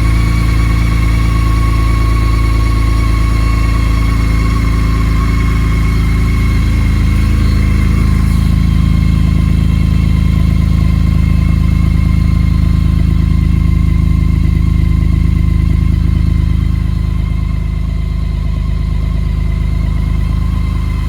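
BMW K1600GT's inline six-cylinder engine idling steadily just after a cold start following five months laid up over winter, purring like a kitten. A faint high whine fades out about eight seconds in.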